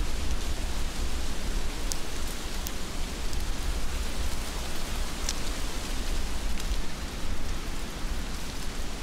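Heavy rain falling steadily, with a low rumble underneath and a few scattered sharp ticks of drops striking close by.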